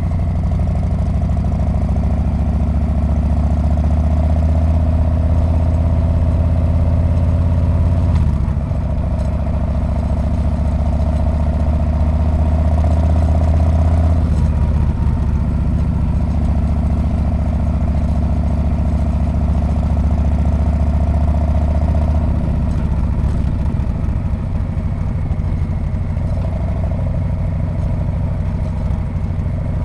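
Harley-Davidson Street Bob's V-twin engine and exhaust running under way, a steady low rumble. Its note shifts about eight seconds in, again around fourteen seconds and around twenty-two seconds.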